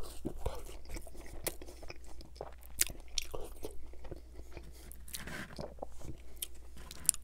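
Close-miked chewing of a mouthful of hot, gravy-dipped KFC fries, with irregular wet mouth clicks and soft crunches.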